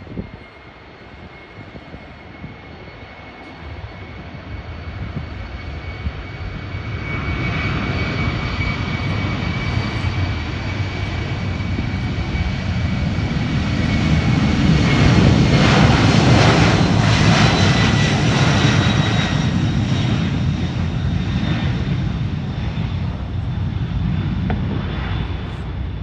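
Jet airliner passing close by. The engine noise grows steadily louder, peaks about two-thirds of the way through and then eases a little, with a steady high-pitched whine running through it.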